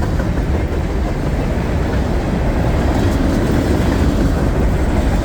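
Freight cars of a mixed freight train rolling past on the track: a steady, loud noise of wheels on rail, heaviest in the low end.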